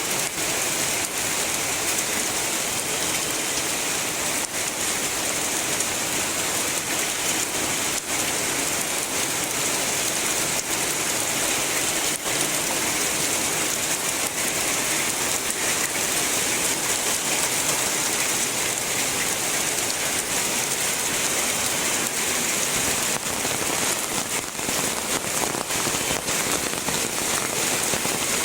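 Heavy rain falling steadily: a dense, even hiss with scattered drops ticking on a surface.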